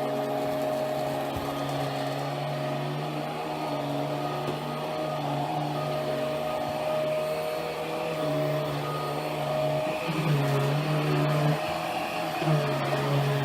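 Hoover Power Drive Pet vacuum cleaner running with a steady motor hum. About ten seconds in, and again near the end, its pitch dips and it gets a little louder.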